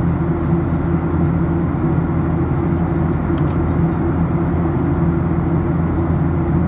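Steady cabin drone of a Boeing 737-800 in flight, from its CFM56-7B engines and the airflow, heard inside the cabin from a window seat. The noise is low and even, with no change in pitch.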